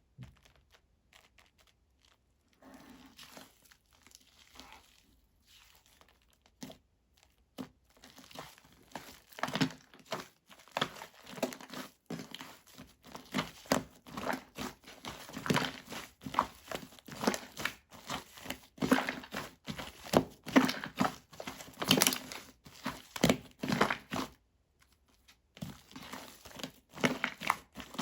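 Shaving-foam slime being squeezed, stretched and folded by hand, giving a dense run of short clicks and pops. Faint for the first several seconds, louder from about eight seconds in, with a brief pause near the end.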